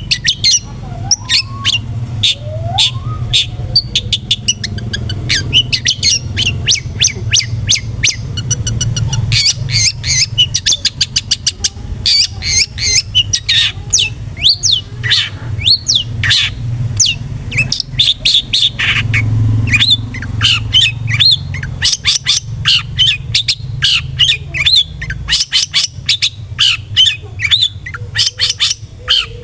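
Long-tailed shrike (cendet) singing loudly in a fast, dense run of short sharp chirps mixed with harsh squawking notes, the excited song of a bird in full voice. A low rumble runs underneath.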